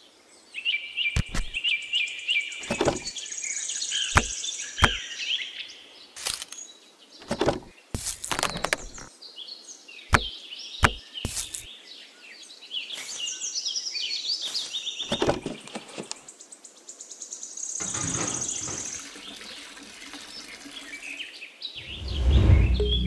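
Birds chirping over and over, with scattered sharp knocks and scrapes from small pieces being handled and sand being dug. Music comes in near the end.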